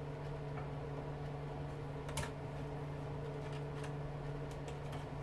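Light clicks and taps of small metal motor parts and tools being handled, one sharper click about two seconds in, over a steady electrical hum.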